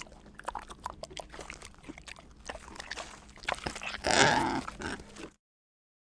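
An animal's call from a sound-effects recording: a run of short clicking, grunting sounds, then a louder, rough call about four seconds in. The recording cuts off abruptly a little after five seconds.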